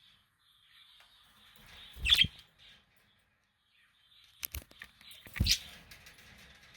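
Budgies chattering softly and continuously, with two loud thumps, about two seconds and five and a half seconds in, and a few sharper clicks between them.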